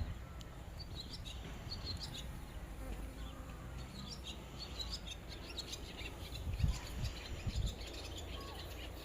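Outdoor ambience of small birds chirping in short, scattered high calls over a steady low rumble, with a couple of soft bumps past the middle.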